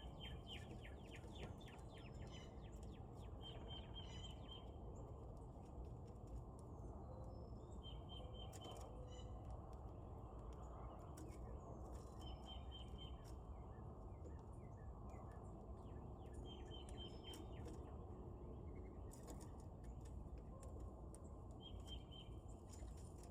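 Faint outdoor birdsong: a songbird repeats a short, rapid trill about every four seconds over a steady low background rumble, with scattered light clicks.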